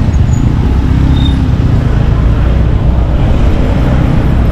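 Steady road noise from a moving motorcycle: engine, traffic and a low rushing roar of wind on the microphone, heard from the bike as it rides through town streets.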